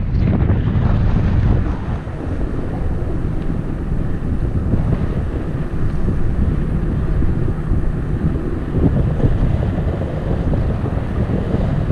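Wind buffeting the microphone of a camera riding on a moving bicycle: a steady, low rush of noise.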